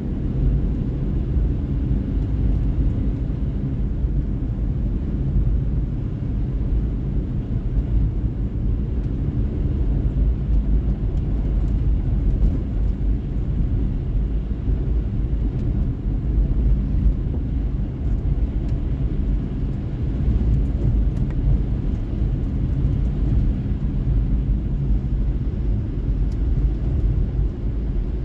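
A car driving at a steady speed: a continuous low rumble of tyres on the road and the engine, with no change in pace.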